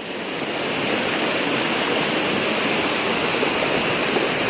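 Floodwater rushing in a swollen river: a steady, dense rush of water that swells over the first second and then holds even.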